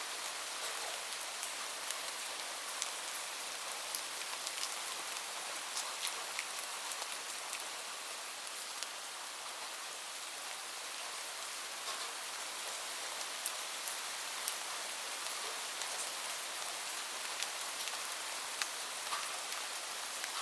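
Steady rainfall: an even hiss of rain with scattered sharper drops ticking on a hard surface.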